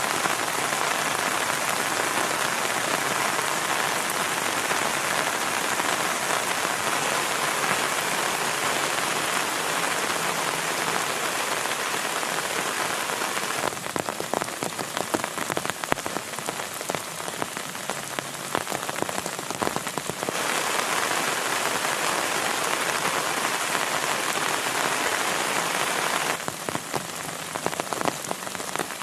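Heavy rain falling in a steady, dense rush. Twice, for several seconds, the rush thins and individual drops patter sharply and distinctly.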